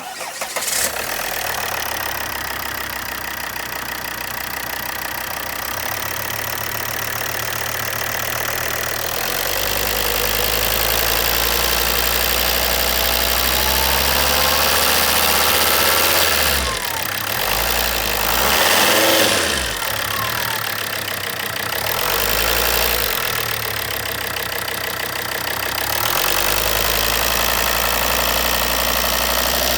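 Volvo D5244T10 2.4-litre five-cylinder diesel engine starting and then running at idle. It gets somewhat louder about a third of the way in and swells briefly twice past the middle.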